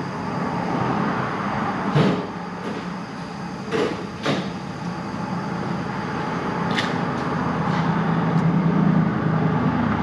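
A few sharp metallic clinks, about four in all, as a lock washer and nut are handled and fitted onto a starter stud by feel, over a steady rumbling background hum.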